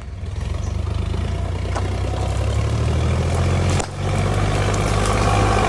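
Sonalika DI 50 RX tractor's diesel engine running steadily at low speed, with a brief drop a little under four seconds in.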